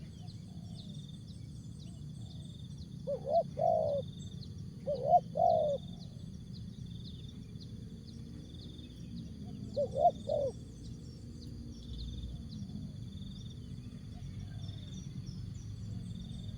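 Spotted dove cooing: three short phrases a few seconds apart, each a couple of quick low notes run into a longer one. A steady high chirring with a regular pulse goes on underneath.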